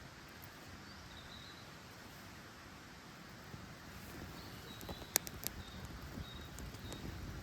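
Wood campfire burning, with a few sharp crackles and pops about five seconds in. Faint short high chirps sound in the background.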